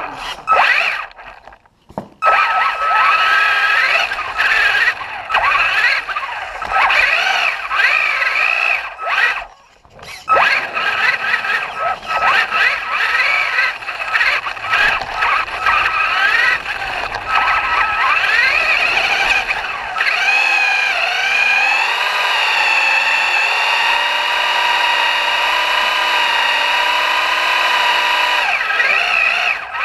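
Traxxas radio-controlled truck's motor whining, its pitch rising and falling with the throttle and cutting out briefly twice early on. For the last third it holds a steady high whine at sustained speed.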